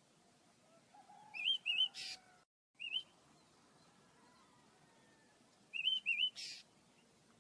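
Pet birds chirping: pairs of short wavering chirps about one and a half seconds in and again near the end, each followed by a brief harsh, noisy note, with the sound cutting out for a moment in between.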